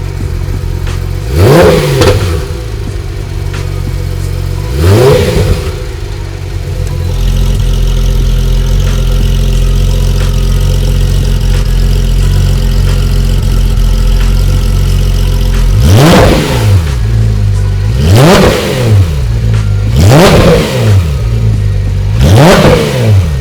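Porsche 991.2 GT3 RS's naturally aspirated flat-six, fitted with a Dundon header and muffler exhaust, idling and being blipped: two sharp free revs early, a steady idle, then four quick revs about two seconds apart near the end.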